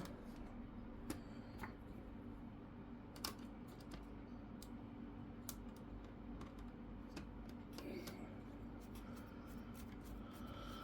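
Faint, scattered small clicks and taps of hands working on an open laptop, putting a screw and parts back in during reassembly, over a steady low hum.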